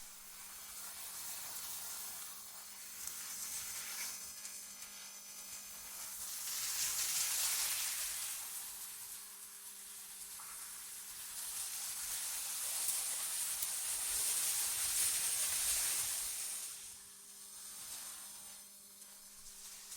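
Wind rushing in gusts: a high, airy hiss that swells and fades several times, strongest about a third of the way in and again past the middle, then dropping low near the end.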